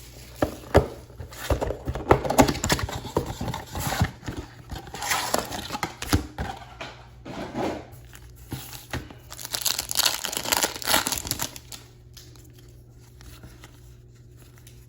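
Baseball card pack wrappers being torn open and crinkled by hand, with irregular rustling and crackling that stops about three-quarters of the way through.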